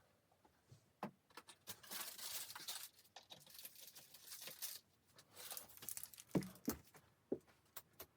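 Rustling and crinkling of something being handled, in two stretches, with scattered clicks and a few short knocks near the end.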